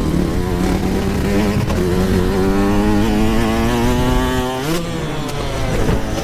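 Yamaha YZ125 two-stroke dirt bike engine under throttle, its pitch climbing steadily for a couple of seconds, then briefly jumping and dropping about two-thirds of the way through, as on a gear change or throttle chop.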